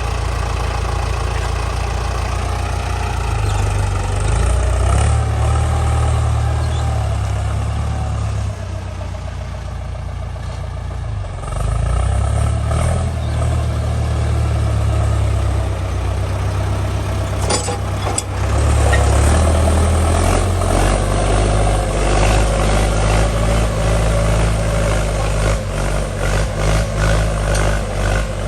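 Ford 6600 tractor's diesel engine running under load while plowing wet, muddy ground. Its low drone eases off for a few seconds before picking up again, a couple of sharp knocks sound about two-thirds of the way through, and the engine note pulses unevenly near the end.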